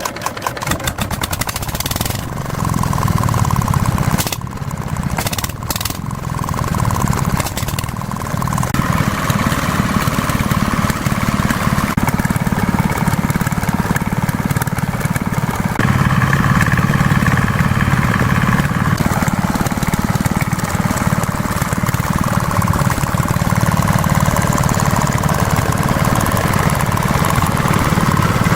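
A motor running steadily and loudly, its tone and load shifting about a third and again about halfway through.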